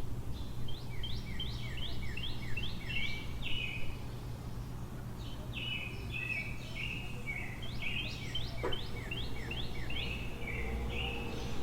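A songbird singing two long runs of quick, repeated down-slurred whistled notes, about three a second, over a steady low city hum.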